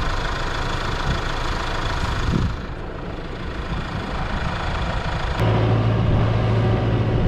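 Tractor engine running steadily while round bales are fed. About five seconds in it gets louder, settling into a steady low drone.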